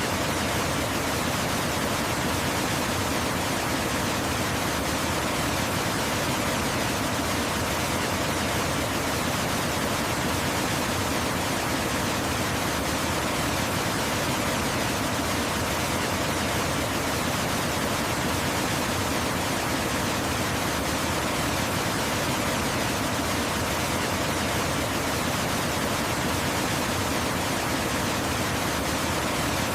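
Waterfall rushing steadily: an even, unbroken hiss of falling water spread across high and low pitches.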